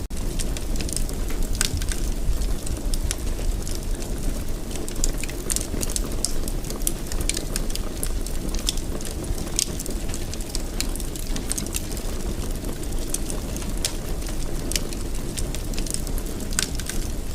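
Fire in a fireplace crackling steadily, with frequent sharp pops and snaps over a low, even rumble of the flames.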